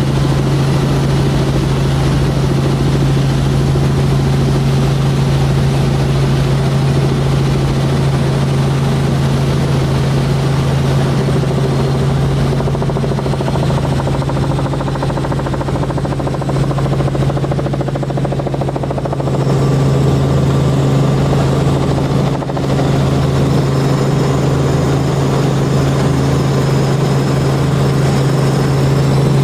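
Tour helicopter's rotor and engine running with a loud, steady low drone, heard from inside the cabin. The tone shifts a little about two-thirds of the way through.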